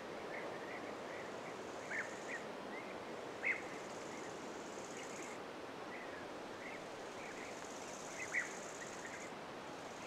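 Small birds giving short chirps and calls every second or so over a steady background hiss, the loudest about three and a half and eight seconds in. A faint high buzz comes and goes twice.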